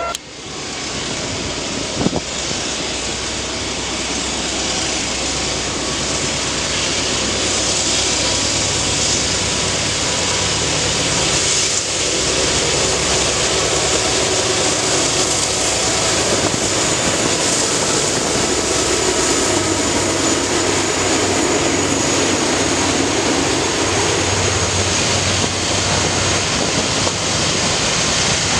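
Freight train passing close by: a loud, steady rumble of wheels on rail that builds over the first few seconds. There is a sharp click about two seconds in and a faint high squeal in the latter half.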